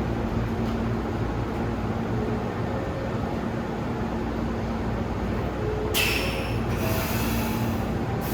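Hankyu 3300-series electric train pulling out, with a steady low hum and running noise. About six seconds in comes a loud hiss that stops briefly and starts again.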